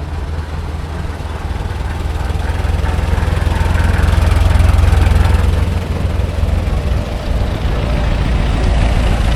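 Antique car engine running as the car drives past, a low rumble that swells to its loudest about four to five seconds in, eases off, then builds again near the end.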